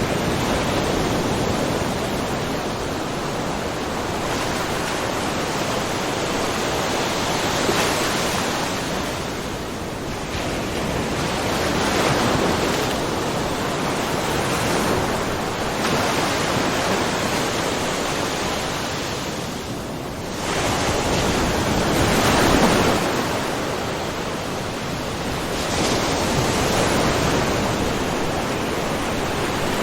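Small ocean waves lapping and splashing against a rocky shore in a continuous wash, swelling and ebbing every few seconds, with a larger surge about two-thirds of the way through.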